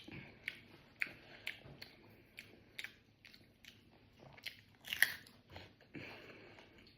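A person chewing a mouthful of rice and fried vegetables: a steady run of short wet clicks and light crunches about twice a second, with a louder smack about five seconds in.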